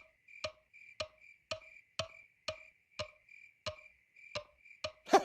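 Aye-aye tapping its long middle finger on tree bark: a steady series of sharp knocks on wood, about two a second. This is percussive foraging, in which it taps and listens for the hollow tunnels where grubs live.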